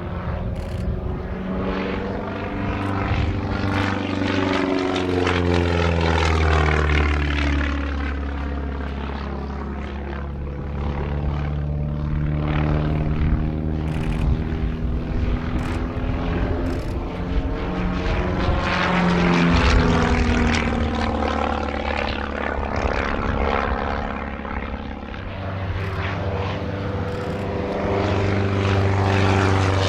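Propeller aerobatic aircraft flying display passes, their engine note sliding down and back up in pitch as they go by and come round again.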